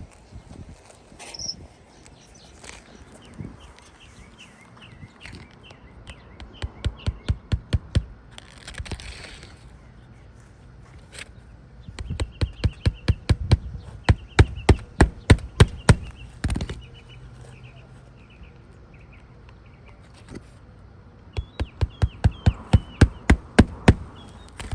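Hammer driving roofing nails into 3-tab asphalt shingles: three runs of quick strikes, a few blows a second, each run a couple of seconds or more, the middle one the longest. Birds chirp faintly between them.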